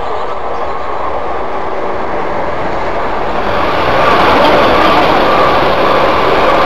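Freight train approaching and passing close by, its wagons running past on the rails. The sound grows louder about four seconds in, as the train draws level.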